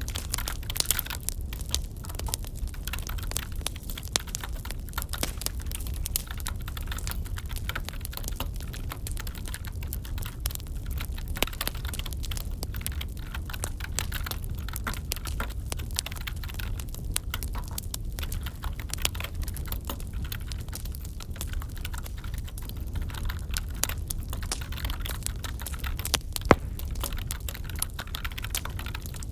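Wood fire crackling with irregular pops, one louder pop near the end, mixed with the quick clicks of computer keyboard typing over a steady low rumble.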